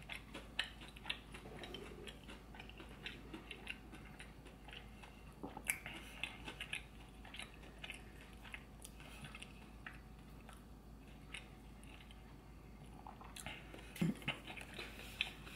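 Faint close-miked chewing with scattered small mouth clicks and light crunches, a little busier about six seconds in and again near the end.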